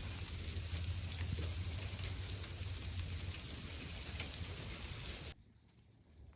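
Light rain shower falling, a steady fine hiss with faint scattered drop ticks. It cuts off suddenly about five seconds in.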